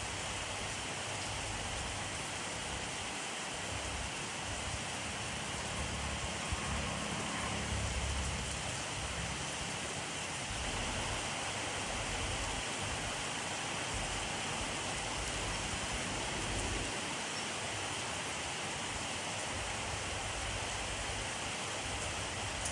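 Steady rainfall, a dense even hiss of rain falling on a surface, with a brief low rumble swelling up about a third of the way through.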